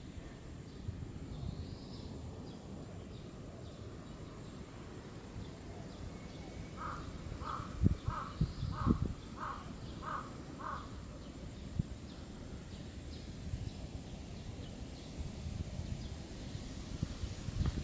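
A bird calling seven times in a quick, even series about half a second apart, over a steady outdoor background with faint higher chirps of small birds.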